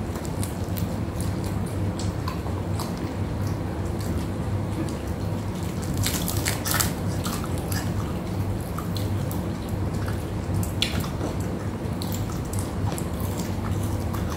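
Close-up eating sounds of crispy deep-fried tilapia eaten by hand: wet chewing and lip smacks, with a few sharp crisp clicks around six to seven seconds in and again near eleven seconds. A steady low hum runs underneath.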